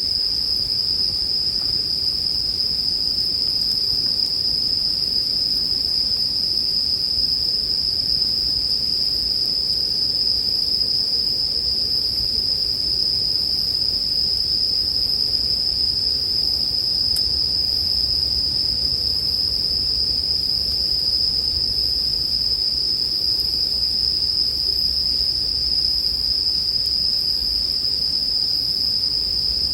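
Japanese bell crickets (suzumushi) chirping in a steady, unbroken high-pitched chorus, over a faint low background noise.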